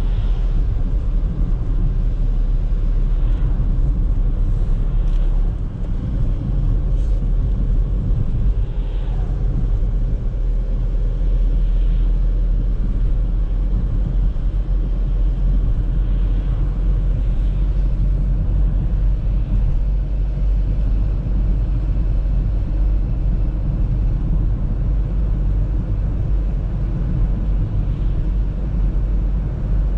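Audi A3 driving at steady speed, with a continuous low rumble of engine and road noise.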